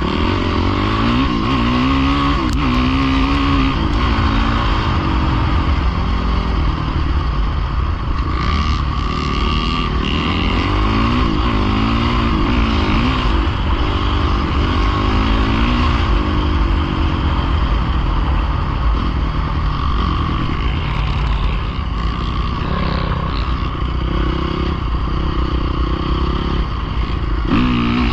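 Pit bike engine running continuously, revving up and down repeatedly as it is ridden.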